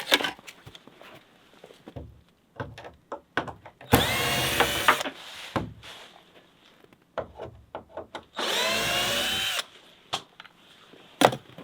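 Power drill running in two bursts of about a second each, its motor spinning up in each. Small knocks and handling clicks fall between the bursts.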